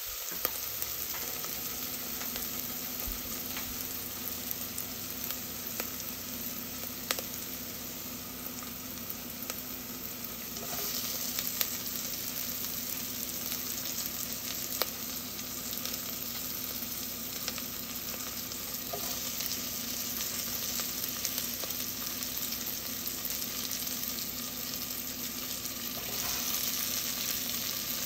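Diced onion sizzling in hot oil in a nonstick pot, a steady frying hiss. It swells louder a few times as chopped bell pepper pieces are dropped in, with a few sharp clicks.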